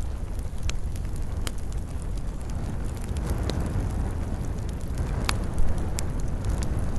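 Campfire burning: wood crackling with several sharp pops, about five in all, over a steady low rumble.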